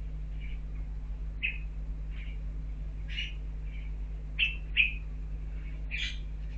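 Black-naped oriole giving short call notes, about one a second, with two louder ones close together near the middle.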